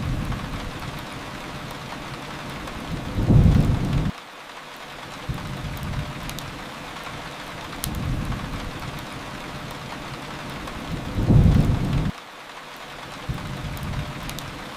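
Steady rain on a surface with low rumbles of thunder swelling twice, about eight seconds apart, each cutting off suddenly. A few faint crackles from a wood fire.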